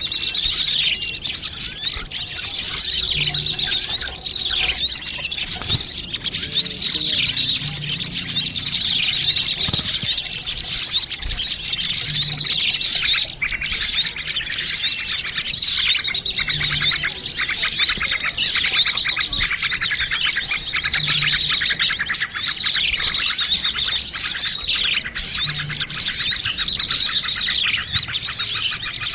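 Many small birds chirping and chattering at once in a dense, unbroken mass of overlapping high twitters and trills. This is a bird-luring (pikat) recording of noisy small birds. A faint low note recurs every four to five seconds underneath.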